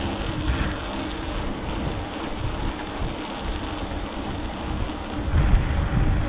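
Wind buffeting the microphone on a moving bicycle: a steady, rumbling rush that swells briefly about five seconds in.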